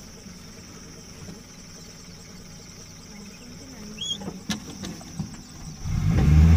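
A vehicle's engine comes in suddenly near the end and runs loudly and steadily, heard from inside the vehicle. Before it there is only a faint steady hum, with a few sharp clicks about four seconds in.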